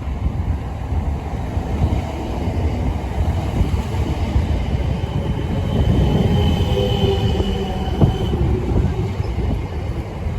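Train running through the station with a steady low rumble. A high, thin squealing tone comes in over it around the middle and fades, and there is a single sharp click near the end.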